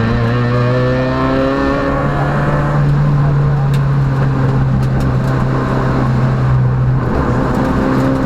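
Peugeot rally car engine under hard acceleration, heard from inside the car, its pitch climbing steadily with a drop just after the start and another about seven seconds in as it changes gear.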